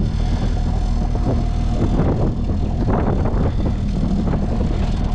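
Jon boat's outboard motor running steadily, a low engine drone with a thin steady whine over it.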